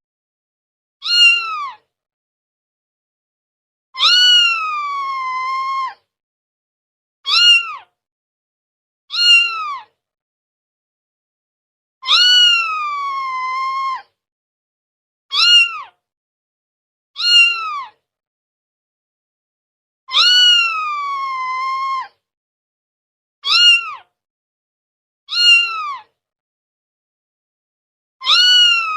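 A cat meowing in a repeating cycle: two short meows, then one long drawn-out meow that falls in pitch and holds. The cycle repeats about every eight seconds with dead silence between calls.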